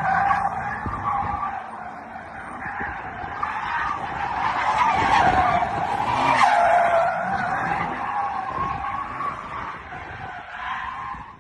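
Car tyres squealing continuously in a long skid, the pitch wavering up and down, loudest about halfway through and fading near the end.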